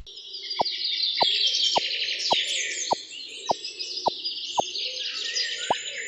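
A chorus of small birds chirping, with a short falling plop repeated evenly just under twice a second.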